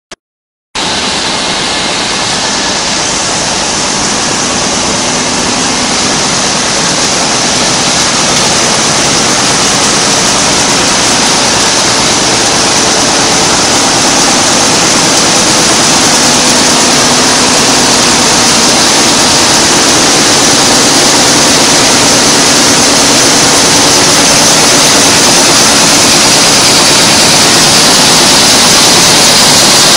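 Envelope-making machine running: a loud, steady mechanical noise with a faint low hum in it, starting about a second in and growing slightly louder.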